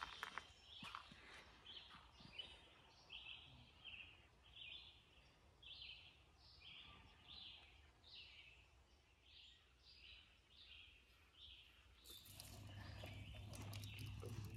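Faint bird call repeated as a steady series of short high notes, about one and a half a second, in a near-silent dawn forest. About twelve seconds in it gives way to a louder hiss with sharp crackles from a burning campfire.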